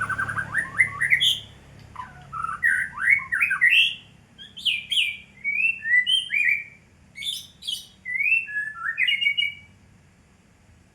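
White-rumped shama singing a long, varied song of clear whistled phrases: quick runs of repeated notes, then rising and falling slurred whistles, ending about ten seconds in.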